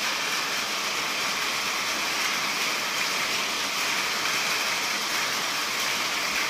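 Steady monsoon rain falling, an even hiss that does not let up.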